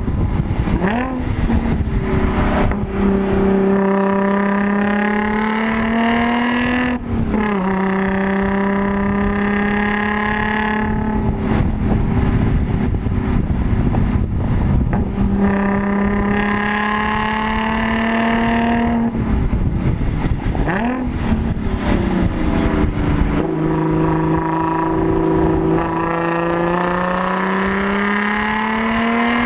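Supercharged Audi S4 V6 heard from inside the cabin, pulling hard on track. The engine note climbs steadily under load and drops sharply at gear changes or lifts, about seven seconds in and again around twenty seconds, with a couple of quick throttle blips.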